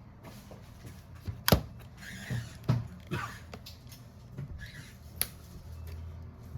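Small hand tools and parts handled on a phone-repair bench: a few sharp clicks and taps, the loudest about a second and a half in, with brief scraping and rustling between them, over a steady low hum.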